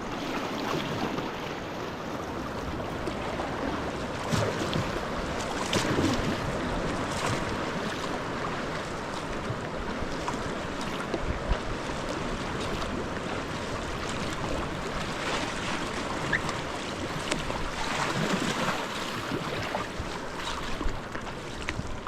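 Sea water lapping and splashing around a sea kayak, with wind rumbling on the microphone. Irregular small splashes come and go over a steady wash of water and wind.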